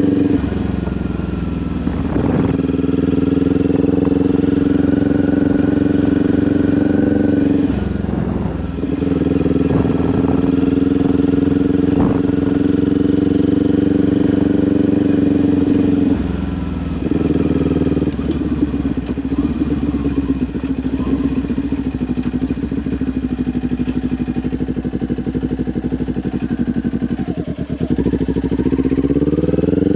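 Kawasaki Ninja 400 parallel-twin engine with an aftermarket SC Project exhaust, heard riding. It holds a steady note with brief drops in level about 8 and 16 seconds in. The note is lower and rougher from about 17 seconds, then rises as it revs up near the end.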